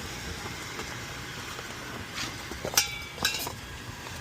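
A few sharp metallic clinks and knocks, the loudest about three seconds in, from a replacement cooling tower motor and its mounting hardware being handled into place, over steady background noise.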